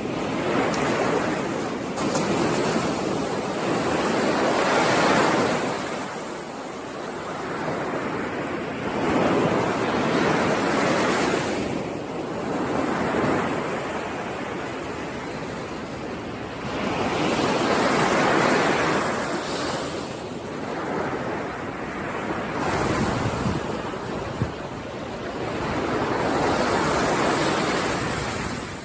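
Sea surf: waves breaking and washing in, swelling and fading in about four slow surges several seconds apart.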